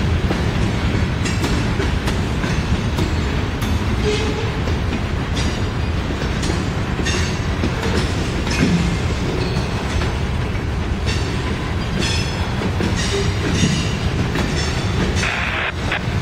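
Freight train of covered hopper cars rolling past, a steady rumble of steel wheels on rail. Sharp clacks about every second or so as wheel sets pass.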